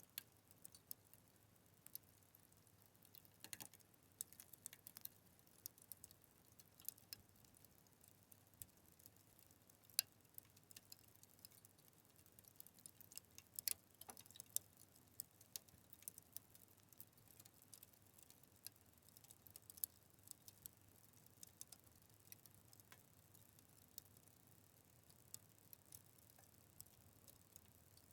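Wood fire crackling: faint, irregular sharp pops and snaps over a low hiss, with one louder snap about ten seconds in and a busier run of pops a few seconds later.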